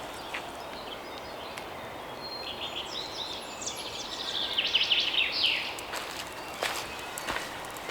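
A songbird sings one phrase of about three seconds, a run of quick, high notes that falls and speeds up toward a louder close. Footsteps crunch on a dry-leaf forest path around it.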